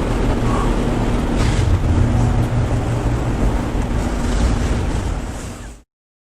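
2009 Corvette ZR1's supercharged 6.2-litre LS9 V8 running steadily, with a strong low drone. The sound cuts off suddenly near the end.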